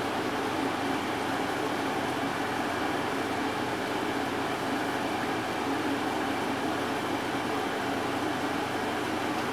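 Air conditioner fan running steadily with a constant hum, and heavy rain outside heard over it.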